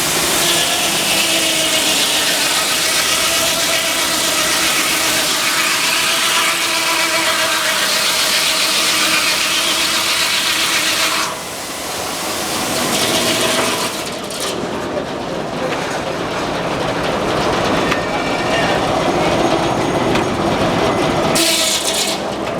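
Frick sawmill's circular saw running through a log with a loud, steady, noisy whine and a faint wavering tone. The noise cuts off sharply about eleven seconds in, leaving the mill machinery running more quietly, and a brief loud burst returns near the end.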